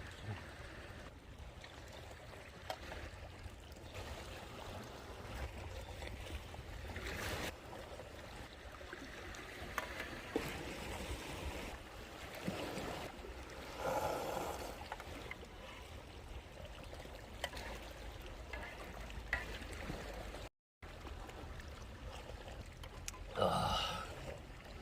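Seashore ambience: a steady wash of sea water with wind rumbling on the microphone, and a few brief louder sounds along the way.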